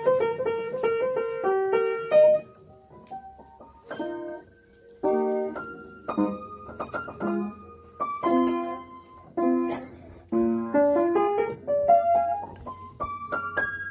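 Background piano music: a light melody of quick struck notes in short phrases, with brief pauses between them.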